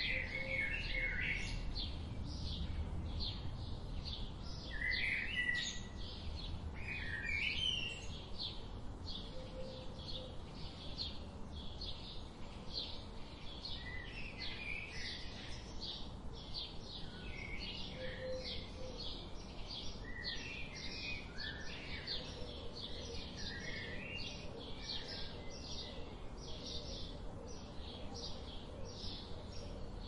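Several birds chirping: a steady run of short, high chirps, about two a second, mixed with brief warbling phrases lower in pitch, over a steady low background hiss.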